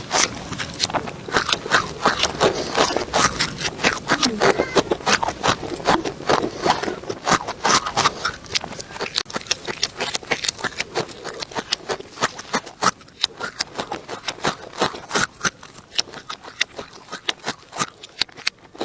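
Close-miked crunching and chewing of crispy food, a rapid, irregular run of sharp crackles.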